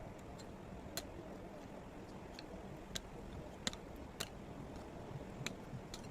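A handful of scattered sharp clicks or ticks, irregularly spaced, over a low steady background noise.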